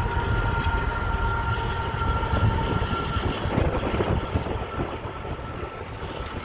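Wind buffeting the microphone over the fading rumble of a passing train, with two steady high tones from the train that fade out about six seconds in.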